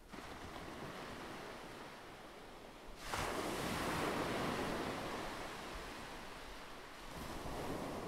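Ocean waves breaking on a shore: a wave crashes about three seconds in and washes out slowly, with another swelling near the end.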